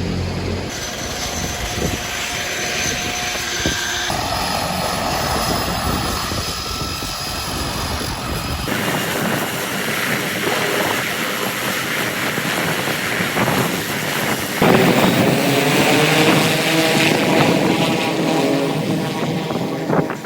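A propeller-driven aircraft's engine running steadily, the sound changing abruptly several times.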